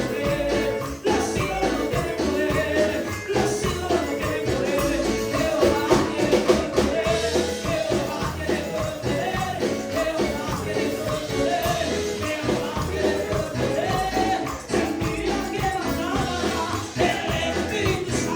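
Upbeat Latin-style Pentecostal worship chorus: singing over a band, with a tambourine keeping a steady beat.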